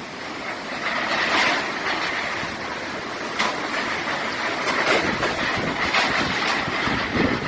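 Hurricane storm noise: a steady rushing of wind and water, with brief sharp sounds about three and a half and six seconds in.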